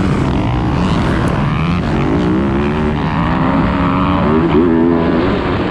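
Dirt bike engine running loud and close, its pitch rising and falling repeatedly as the throttle is opened and closed.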